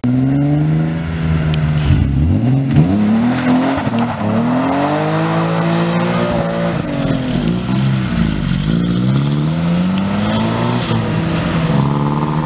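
Cars accelerating away one after another, their engines revving up and easing off in several rising and falling sweeps, over a steady engine idling close by.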